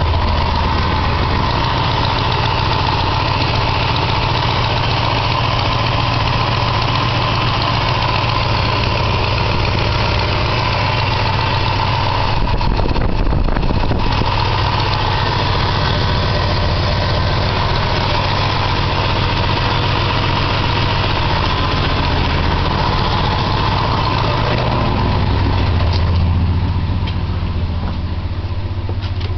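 The 390 cubic-inch V8 of a 1966 Ford Galaxie 500 idles steadily while warming up after a cold start. There is a brief change in tone about halfway through, and the idle is a little quieter over the last few seconds.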